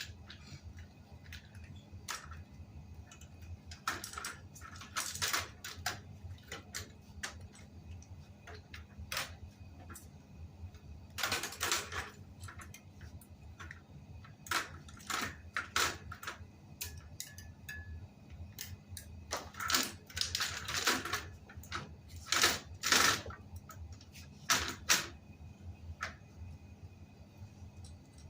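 Hands working on a bicycle wheel and tyre with tools: irregular clicks, taps and short scraping rustles in clusters, over a low steady hum.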